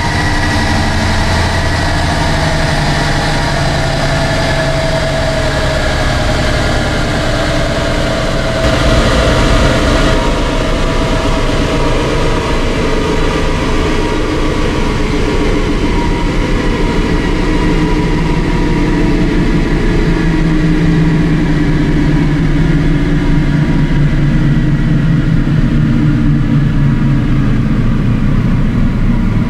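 Renault 1.5 dCi four-cylinder diesel and the chassis dyno rollers running, the pitch falling slowly and steadily over the second half as engine and rollers wind down after a pull. The sound gets louder and hissier about nine seconds in.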